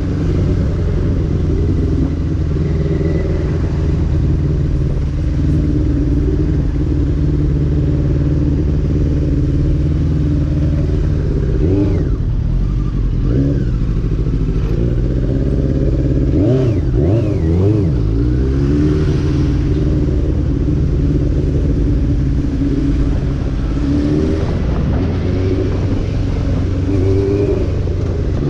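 Motorcycle engine running under way, a steady engine note with rushing noise. Around the middle the pitch dips and rises a few times as the revs change.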